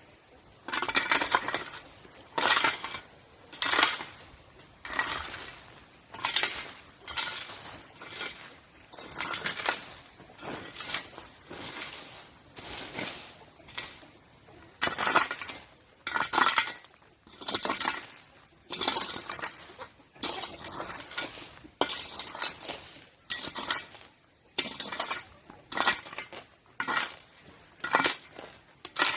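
Repeated crunching, scraping strokes, about one a second, each lasting about half a second.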